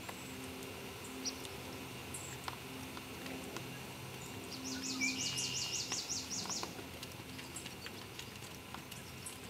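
A songbird sings a quick trill of about a dozen repeated high notes, roughly two seconds long, about halfway through. Under it, faint scattered ticks of a horse's hooves on an arena's sand footing.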